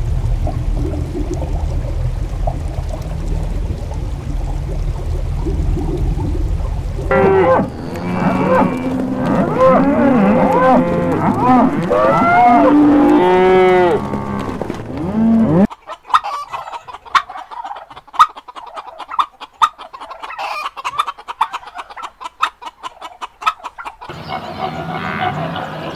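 Cattle mooing, many overlapping drawn-out calls, after a low steady rumble. The mooing cuts off suddenly about two-thirds of the way through, followed by a run of short sharp clicks and calls, and near the end poultry calling.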